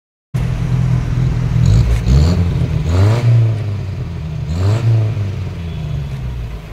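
Exhaust of a 1972 Premier Padmini (Fiat President) running at the rear of the car, its four-cylinder engine revved twice, the pitch rising and falling each time. The sound starts and cuts off suddenly.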